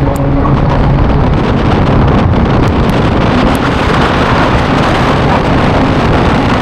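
Simulated hurricane-force wind from large wind machines, loud and steady, buffeting the microphone, with a low machine hum beneath.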